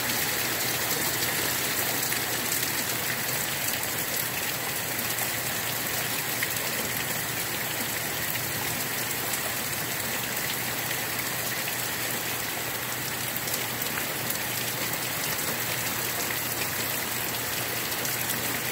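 Heavy rain falling steadily in a hard downpour.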